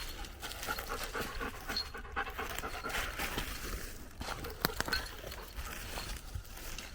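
German Shepherd panting steadily, with a couple of sharp clicks about four and a half seconds in.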